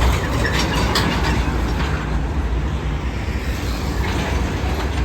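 Steady low rumble of heavy road traffic, such as a passing bus or truck engine, with a few sharp clicks in the first second.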